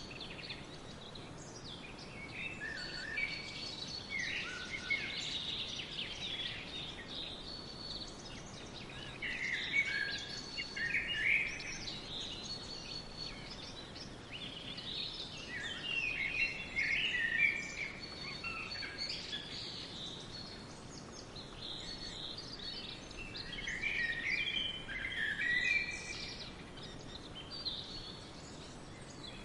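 Several songbirds singing and chirping at once in a forest, a continuous chorus of overlapping trills and chirps, with busier bursts around ten, seventeen and twenty-five seconds in.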